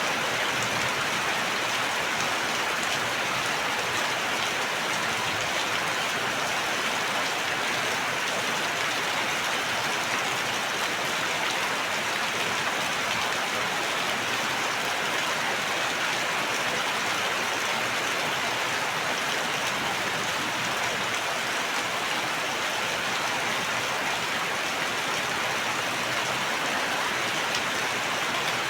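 Steady, even rain falling, with no thunder or breaks.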